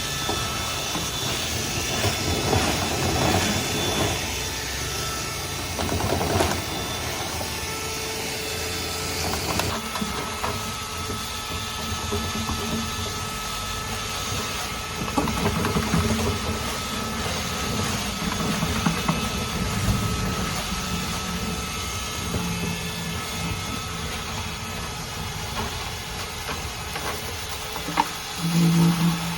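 Dryer vent cleaning equipment running: a steady motor sound with a hiss of rushing air. The sound changes abruptly about ten seconds in.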